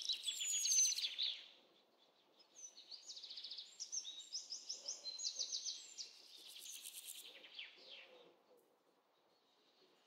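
Forest birds singing: series of quick, high chirping trills and a falling whistle, with a brief pause about two seconds in, fading out near the end.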